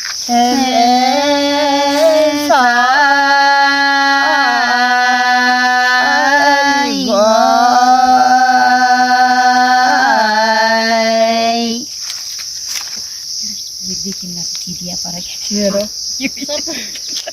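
A voice singing long, held notes with short slides between them for about twelve seconds, over a steady high chirring of crickets; the singing stops and the crickets carry on.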